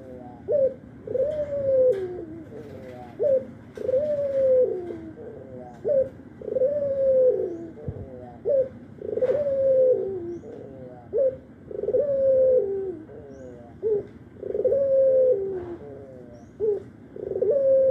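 A domestic Barbary dove (burung puter) cooing over and over. Each phrase is a short note followed by a longer coo that falls in pitch at its end, repeating about every second or two.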